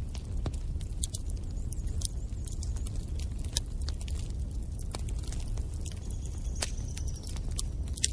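Wood fire in a fireplace crackling, with sharp, irregular pops over a steady low rumble of the flames.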